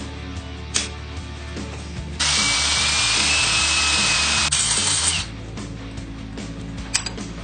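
A handheld power tool runs steadily for about three seconds, starting about two seconds in and cutting off abruptly, over background music.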